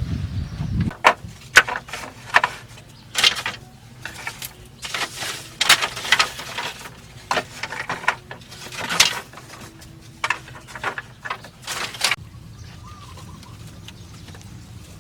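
Irregular knocks and scraping noises, some short and some drawn out over about half a second, which stop about twelve seconds in; faint bird chirps follow.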